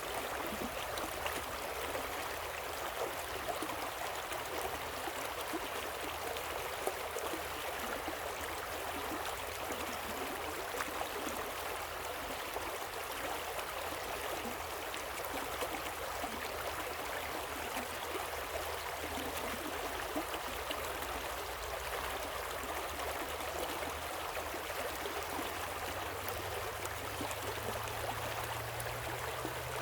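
Waterfall and stream water rushing steadily, an even splashing with no breaks.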